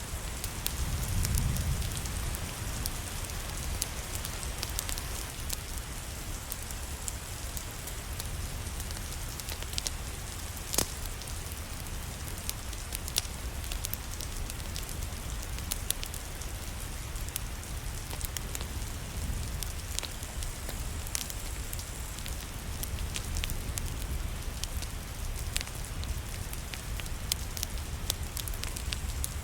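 Steady rain with a crackling fireplace: a constant patter, with sharp snaps and pops scattered through it and one louder snap about eleven seconds in. A brief low rumble swells about a second in.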